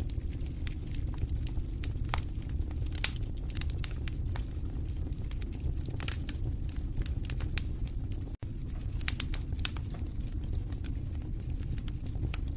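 Wood fire in a fireplace crackling: irregular sharp snaps and pops of burning logs over a steady low rumble of the flames, with a few louder pops. A split-second gap in the sound comes about two-thirds of the way through.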